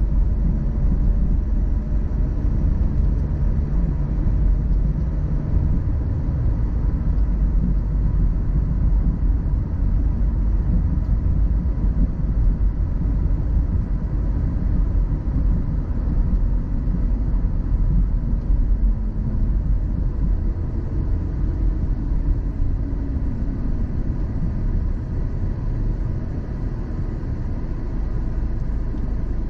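Steady low road rumble of a car being driven at speed, tyre and engine noise heard from inside the cabin.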